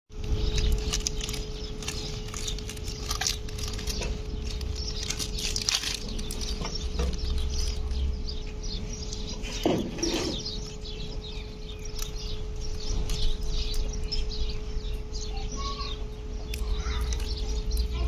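Birds chirping in many short, rapid calls, over a steady low rumble and a faint steady hum.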